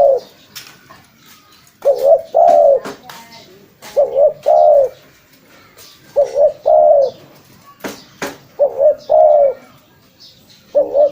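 Spotted dove (tekukur) cooing: a short coo run into a longer coo, repeated about every two seconds, about five times.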